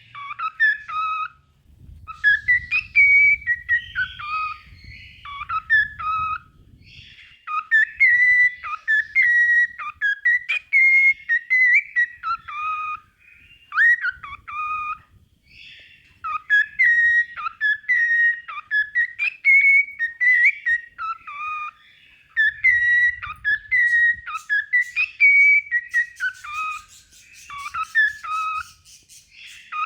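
Cockatiel singing: phrases of clear whistled notes that slide up and down in pitch, with short pauses between them. A fast run of clicking chatter joins in for the last few seconds.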